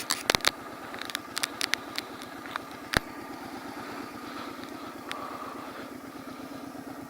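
Motorcycle engine running steadily at low revs, with sharp clicks and taps over the first couple of seconds and one louder click about three seconds in.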